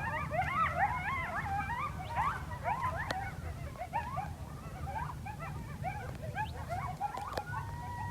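A pack of coyotes yipping and howling, many wavering voices overlapping, ending in one long steady howl near the end, over a steady low rumble.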